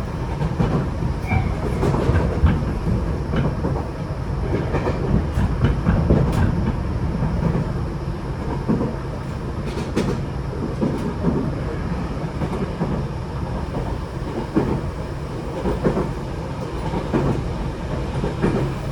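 Tokyo Metro 8000 series train with Mitsubishi IGBT-VVVF control, heard from inside the car while running: a steady rumble of wheels on rail, with irregular clicks from the rail joints.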